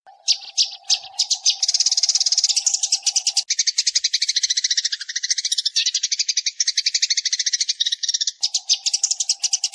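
House or tree sparrows chattering: a few separate chirps, then a dense, rapid run of high chirps, more than ten a second, used as a decoy call to lure birds. A faint steady hum runs under it at the start and again near the end.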